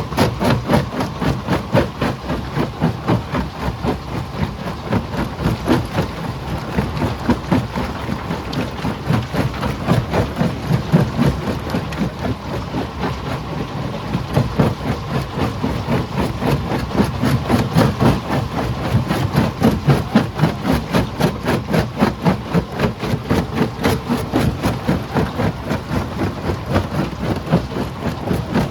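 Stone crusher machine running and breaking rock: a loud, steady mechanical clatter pulsing several times a second.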